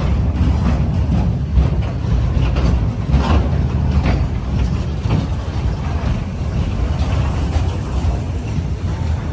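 Freight train rolling past: a steady low rumble of the wagons with sharp metallic clacks from the wheels on the rails, about one a second.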